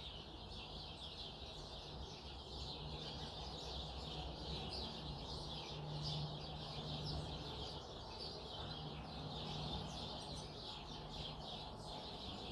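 Many small birds chirping at once in a dense, continuous chatter of short, high calls. A steady low hum runs underneath and swells a little about halfway through.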